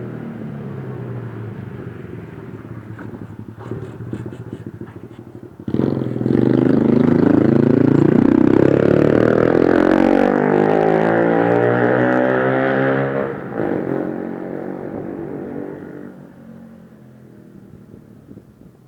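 Honda C90 single-cylinder four-stroke pit bike engine running through its exhaust at low revs. About six seconds in the throttle opens sharply and the engine revs hard, its pitch climbing and falling, for about seven seconds. It then drops back and fades away near the end.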